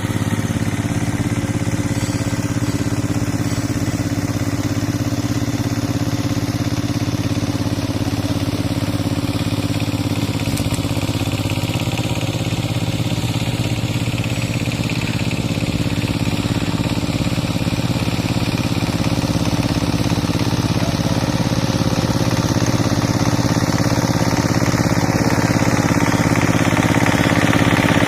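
Kamco power tiller's single-cylinder diesel engine running steadily while the tiller works through deep mud, growing slightly louder over the last few seconds.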